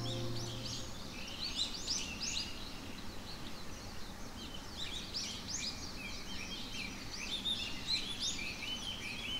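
Many small birds chirping in quick, overlapping calls over a low background hiss; the last held note of music fades out within the first second.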